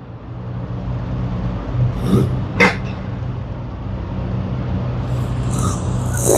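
Car engines rumbling steadily in the street below and growing louder, with a sharp crack about two and a half seconds in.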